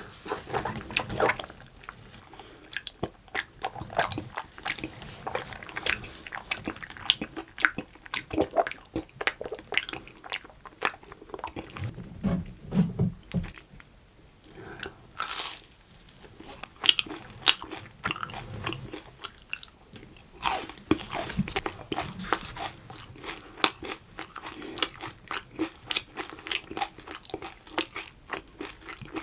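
Close-miked eating sounds: a person biting and chewing crunchy food, with many sharp, irregular crunches throughout.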